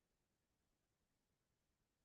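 Near silence: only a faint, even noise floor.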